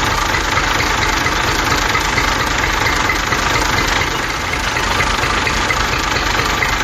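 Homemade toy tractor's small motor running steadily, with a fast, even rattle like an idling engine.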